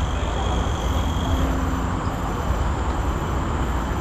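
Steady rumble and hiss of road traffic on a highway.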